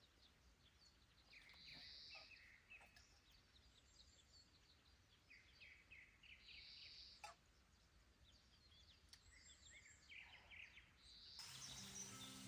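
Faint birdsong: scattered chirps and short calls of small birds, with a single soft click about seven seconds in. A steady hiss comes in near the end.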